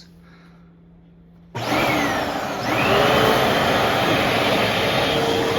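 Upright vacuum cleaner switched on about a second and a half in: its motor starts suddenly, whines up to speed, and then runs steadily.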